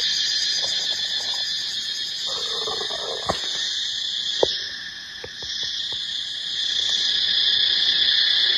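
Steady high-pitched chorus of insects, with a few sharp clicks about three and four and a half seconds in; the chorus grows louder near the end.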